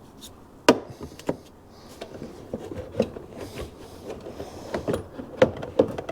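Irregular clicks, knocks and rubbing of car parts and tools being handled during dismantling, with a sharper knock a little under a second in and a few more near the end.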